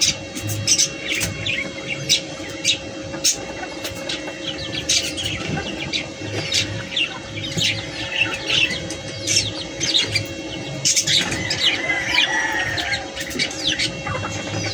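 Small birds chirping over and over in short high chirps, with sharp clicks and a steady low hum underneath.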